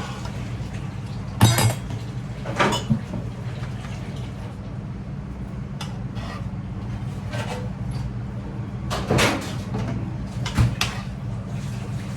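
Kitchen clatter while cooking: a few separate knocks of cookware or a utensil against a pot, over a steady low hum.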